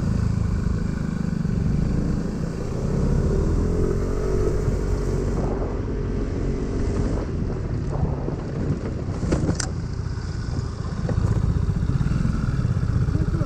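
Motorcycle engine running while riding along, steady throughout, with its pitch shifting slightly a few seconds in and a brief sharp tick later on.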